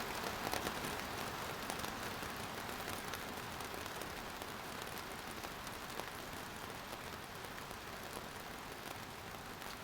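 Steady rain falling, an even hiss with fine patter of individual drops, easing slightly in loudness as it goes.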